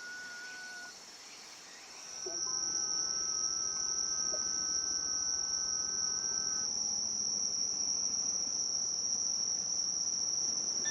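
Crickets singing: a steady, high-pitched continuous trill that sets in loudly about two seconds in, with fainter steady tones beneath it.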